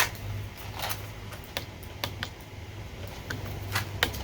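Plastic coin tube being cracked open and the 1 oz silver rounds inside handled: a scattered run of light clicks, a few a second, over a low steady hum.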